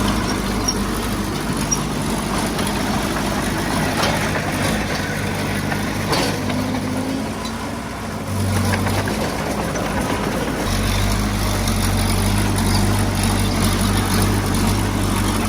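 Heavy diesel engine running steadily, with a couple of knocks in the first half; the engine eases off briefly near the middle, then runs louder and deeper for the last few seconds.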